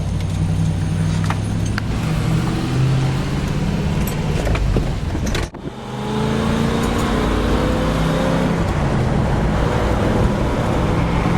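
Lexus 1UZ-FE 4.0 L V8 running in the Isuzu Trooper, its pitch rising several times as the engine pulls up through the revs. The sound breaks off abruptly about five and a half seconds in, then starts again.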